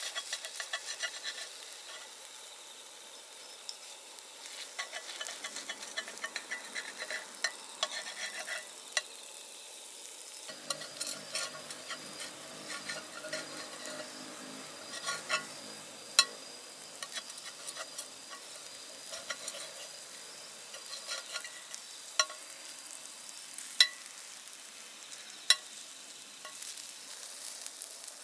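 Steak cooking over an open wood fire: a steady crackle and sizzle, broken by several sharp, loud pops.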